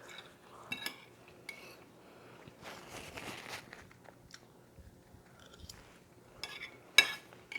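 Close-up eating sounds: chewing and biting into tacos, with scattered small mouth clicks and crunches, a sharper click about 7 seconds in.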